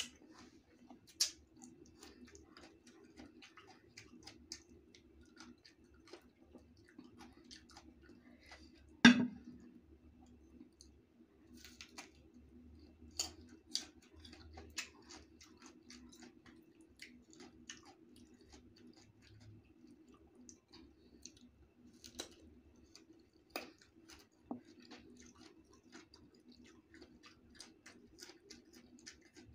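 Close-mic chewing of crisp green mango slices: scattered small crunches and mouth clicks over a steady low hum, with one sharp, much louder click about nine seconds in.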